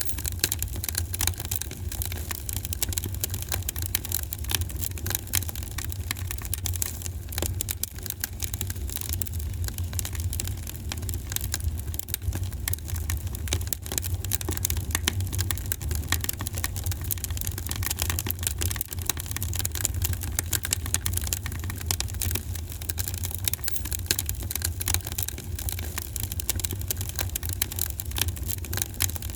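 Fire crackling in a fireplace: a dense, continuous run of small pops and snaps over a steady low rumble.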